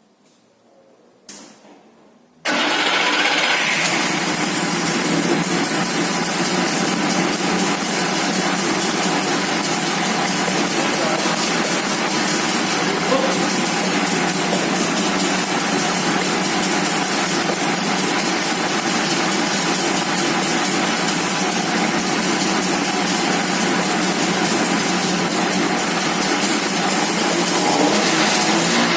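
DKW-Vemag Vemaguet's three-cylinder two-stroke engine being started: a short click about a second in, then the engine fires about two seconds in and keeps running steadily. The freshly reinstalled engine is running on the fuel left in the carburettor bowl.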